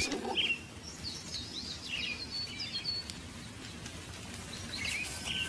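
Birds chirping: scattered short, high chirps and twitters over a faint outdoor hiss.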